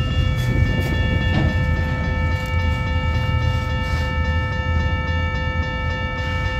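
Autorack freight cars rolling past with a steady low rumble of wheels on the rails. Over it, the grade-crossing warning bell rings on as a set of steady ringing tones.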